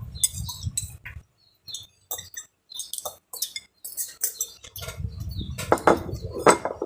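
Scattered small clinks and clicks of spoons against plates and bowls as food is served and eaten, with a low rumble of handling near the start and again over the last two seconds.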